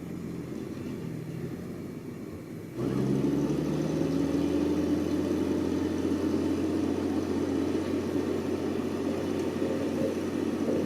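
Heavy machinery's diesel engine running steadily. About three seconds in, the sound jumps abruptly louder into a stronger, steady engine drone.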